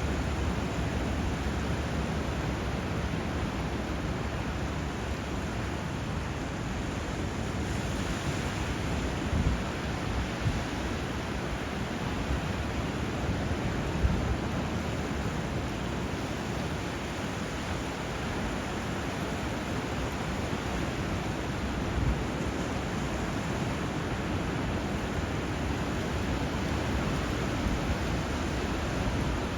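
Steady rush of water where a river meets the sea, river flow and breaking surf blended together, with a few brief louder surges.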